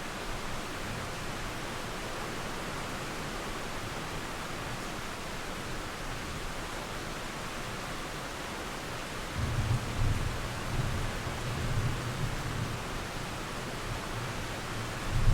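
Steady rain falling, with distant thunder rumbling low from about two-thirds of the way in and rising again briefly near the end.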